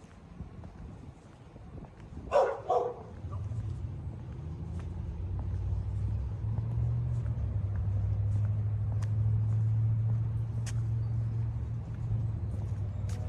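A dog barks twice, about two seconds in. Then a vehicle's low engine hum builds, is loudest through the middle, and eases off near the end as it passes.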